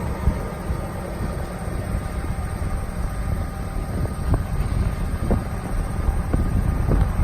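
Dodge Ram 5500's Cummins 6.7-litre turbo diesel running steadily with the PTO engaged, driving the hydraulic pump as the main boom is raised. It makes a steady low rumble with a faint thin whine above it and a few light clicks about a second apart.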